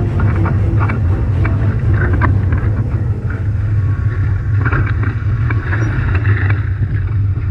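Strong wind buffeting the onboard camera's microphone in a steady low rumble, with rushing water and short slaps and splashes of spray against a Nacra 17 catamaran sailing in storm conditions.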